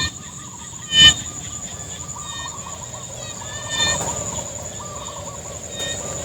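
Field insects keep up a steady high-pitched drone, with repeated short chirping calls and wavering calls from other small animals over it. A sharp knock sounds once, about a second in.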